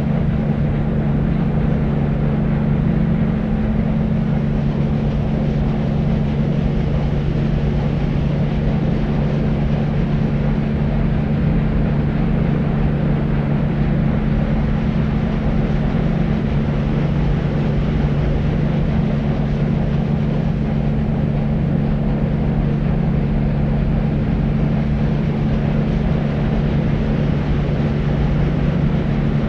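Steady deep white noise for baby sleep: an even hiss weighted toward the low end, with a steady low hum under it and little treble.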